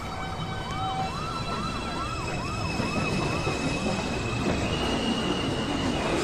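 A subway train running through the station, a rumble growing slightly louder with high steady whining tones over it. For a few seconds from about a second in, a wavering whine rises and falls about twice a second.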